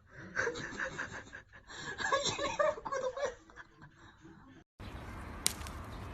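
A person laughing and giggling in short bursts. After a cut about four and a half seconds in, a faint steady hiss follows with a sharp click.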